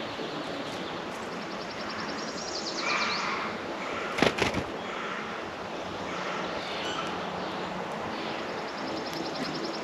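Songbirds singing at a bird feeder: twice, a rapid, even, high-pitched trill lasting about a second, the first about two and a half seconds in and the second near the end, with some lower chirps about three seconds in. A few sharp knocks come a little past four seconds, over a steady outdoor background hiss.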